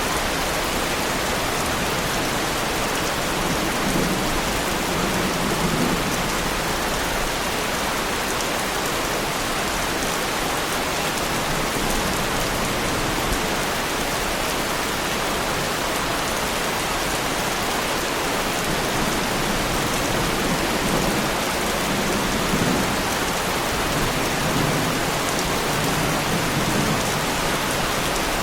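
Heavy rain falling steadily on a car's bodywork. Low rumbles of distant thunder swell a few seconds in and again after about twenty seconds.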